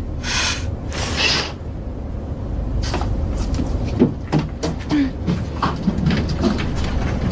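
Steady low aircraft-cabin rumble with scattered light clicks and knocks, like a door or latch being handled. Near the start come two short breathy hisses about a second apart.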